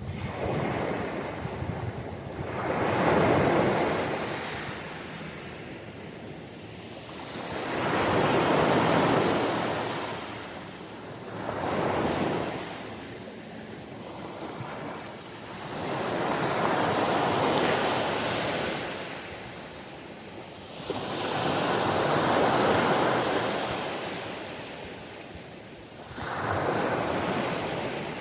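Ocean waves washing onto a shore, six times in turn: each one swells to a rush of surf and then draws back, about every four to five seconds.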